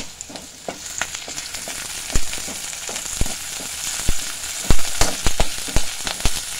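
Chopped onion, curry leaves and green chillies sizzling in hot oil in an aluminium kadai, the tempering for an Indian masala. A metal slotted spoon stirring them knocks and scrapes against the pan in sharp clicks, most of them in the second half, with a quick run of loud knocks about five seconds in.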